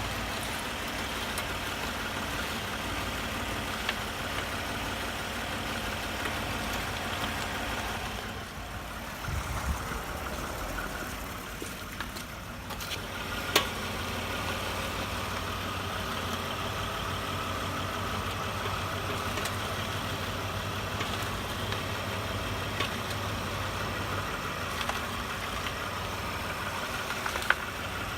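Toyota Highlander running, with steady vehicle noise and a few short, sharp knocks or cracks scattered through, the strongest about halfway. It is the suspension knock that stays after the struts and strut mount bearings were replaced with original parts; its cause is unknown to the owner.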